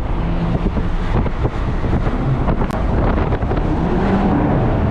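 Car driving, its engine and road noise mixed with wind buffeting the microphone.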